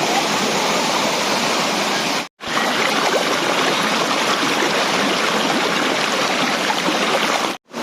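Steady rushing of water over a small tiered waterfall, cutting out to silence for a moment twice, once about two seconds in and again near the end.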